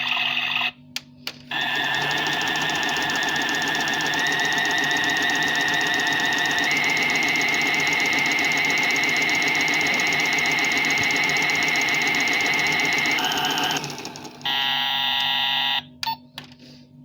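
Washing machine running with a steady mechanical whine that steps up in pitch twice, then stops. About a second later comes an electronic beep lasting about a second and a half.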